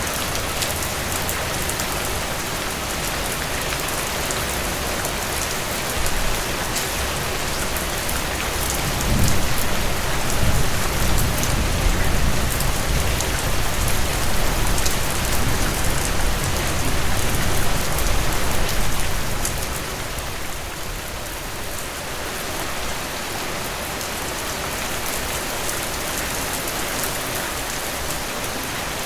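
Heavy rain pouring down steadily in a dense hiss. About a third of the way in, a low rumble swells under it for roughly ten seconds, then fades.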